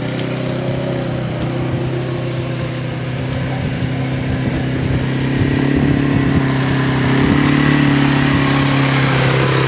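Personal watercraft engine running steadily at a fairly constant speed, getting somewhat louder about halfway through.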